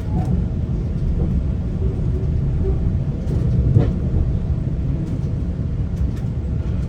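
Steady low rumble of a GO Transit commuter train running along the track, heard from inside a passenger coach, with a few light clicks and a sharper knock a little under four seconds in.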